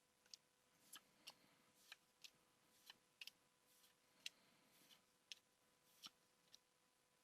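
Pokémon trading cards being handled and flicked through one by one, making faint, short clicks and snaps at uneven intervals, roughly two a second.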